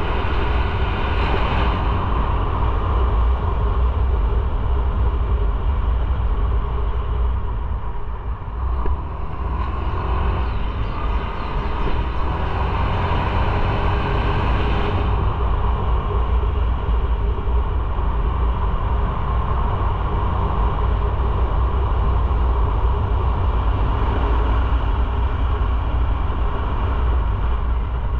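A motorcycle on the move: steady engine and road noise under a deep low rumble, with a brief dip in level about a third of the way through.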